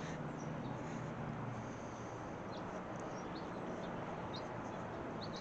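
A small bird chirping faintly, short high chirps about once a second, over steady background noise.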